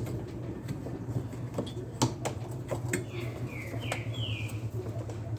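Several sharp clicks and taps of the drive belt and metal parts being handled while the belt is worked onto the pulley of a washing machine's transmission, over a steady low hum. Around the middle a bird gives four quick, short chirps.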